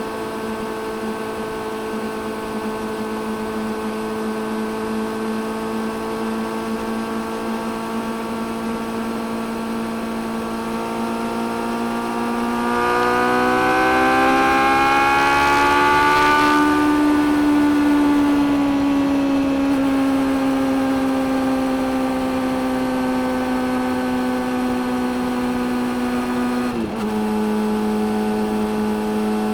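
Suzuki GSX600F's inline-four engine heard from the rider's seat, holding a steady note, then rising in pitch and loudness as the throttle opens about halfway through, with a rush of wind. The note eases down slowly, then drops sharply with a brief dip near the end, a gear change, before running steady again.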